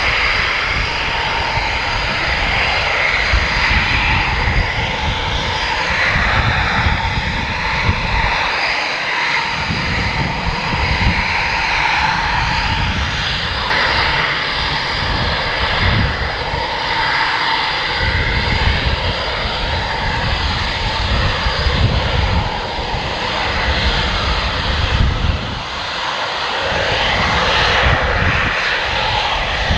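Military fighter jet engines running loud and continuous, a rough low rumble under a steady high roar, the rumble dropping away briefly a few times.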